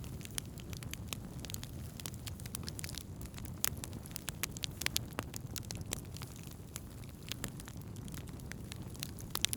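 Wood campfire burning, with a steady low rush of flames under frequent irregular crackles and sharp pops of burning wood, a few pops louder than the rest.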